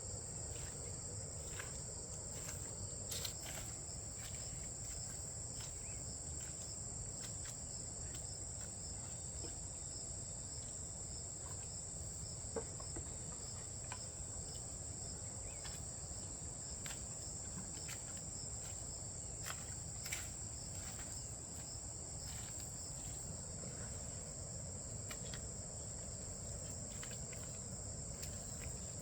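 Steady high-pitched chorus of insects such as crickets, a continuous shrill buzz, with a few faint scattered clicks and knocks, the clearest about three, twelve and twenty seconds in.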